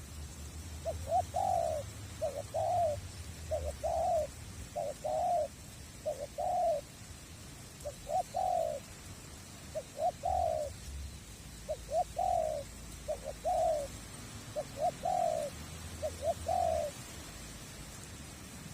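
Spotted dove (tekukur) cooing: a run of about a dozen short coo phrases, roughly one every second or so, that stops a couple of seconds before the end.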